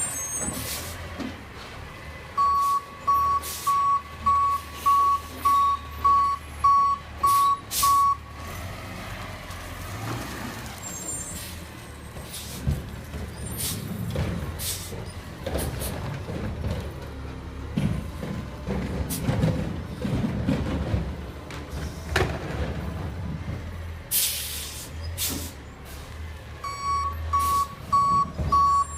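Garbage truck backing up: its reversing alarm beeps about twice a second for some six seconds, stops, and starts again near the end. In between, the diesel engine runs louder for a while, with sharp air-brake hisses and clanks throughout.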